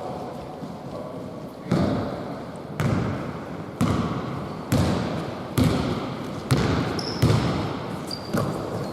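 A basketball being dribbled on a hard court, about eight single bounces roughly a second apart, each leaving an echo in the hall.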